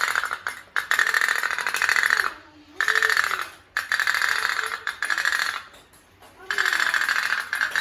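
Otok-otok (pop-pop) toy steam boat putt-putting: a fast, even ticking from its tin boiler diaphragm, coming in spurts of a second or so with short breaks between them.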